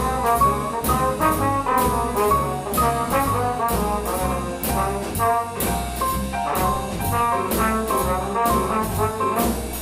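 Live small-group jazz: a low brass lead, the bass trumpet, plays a melodic line over bass, piano and drums, with steady cymbal strokes keeping time.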